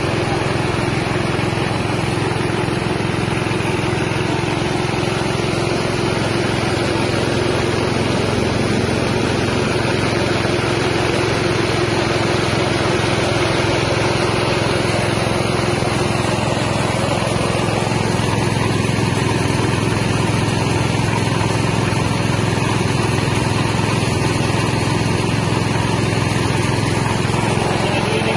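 Small engine-driven rice milling machine running steadily, its 6.5 hp engine and the mill making one loud, continuous mechanical noise, with a slight shift in tone a little past halfway.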